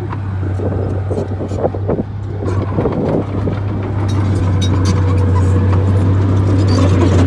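Bulldozer's diesel engine running with a steady low drone, with scattered metallic clanks and knocks over it, growing louder about halfway through.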